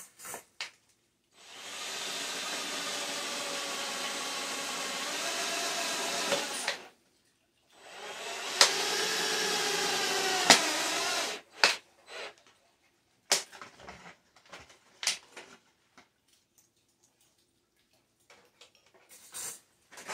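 Power drill running in two long pulls of about five and four seconds, driving screws into the tin-can sheet metal of a stovepipe collar, its pitch dropping as each screw bites. Short clicks and knocks of handling the metal and tool follow.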